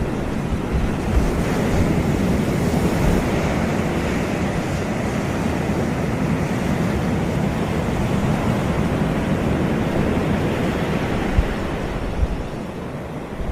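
Sea surf washing onto a tropical beach: a steady rush of breaking waves that swells in the first few seconds and eases a little near the end. A couple of short low buffets of wind on the microphone come near the end.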